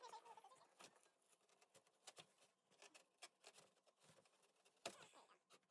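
Faint, irregular clicks and taps, the loudest about five seconds in.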